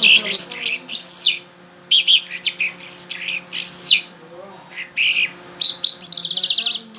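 A songbird singing: a string of short, sharp chirps, then near the end a fast trill that falls in pitch.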